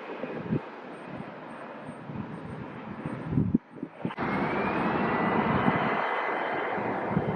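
Airplane engine noise, a steady rush. About halfway through it cuts out briefly, then comes back louder with a thin high whine that rises slightly.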